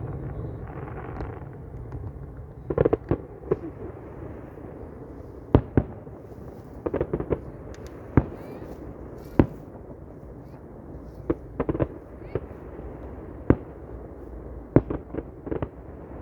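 Fireworks going off: about a dozen sharp bangs at irregular intervals, some coming in quick crackling clusters, over a steady background rush.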